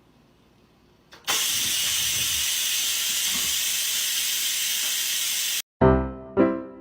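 A steady hiss lasting about four seconds that starts abruptly a second in and cuts off sharply, followed near the end by keyboard music starting.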